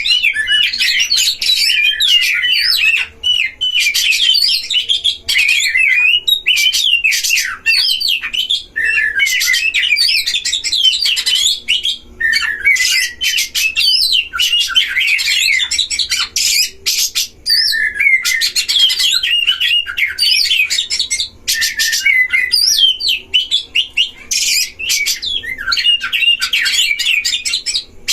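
Oriental magpie-robins singing against each other in a territorial duel: a loud, dense stream of fast, varied whistles, chirps and rasping notes with only a few brief breaks.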